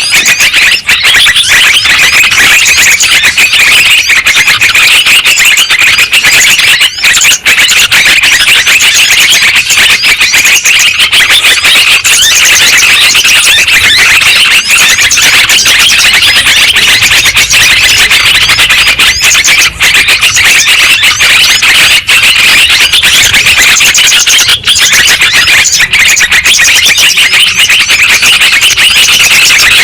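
Yellow-vented bulbuls (trucukan) calling in a dense, unbroken chorus of many overlapping bubbly chattering phrases, loud and high-pitched: a bird-lure track meant to set other bulbuls calling.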